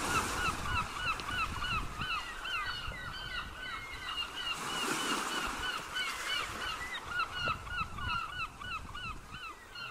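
A flock of birds calling: many short, arched calls repeated several times a second and overlapping one another, over a faint low noise.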